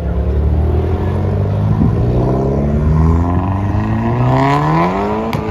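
A car's engine accelerating hard, its note climbing steadily for a few seconds and then dropping sharply near the end, as at a gear change.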